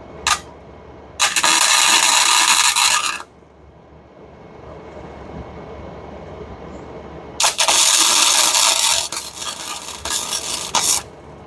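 Electric welder tacking an exhaust pipe joint: a brief arc strike, then a crackling burst of about two seconds, then a longer one of about three and a half seconds that stutters toward its end.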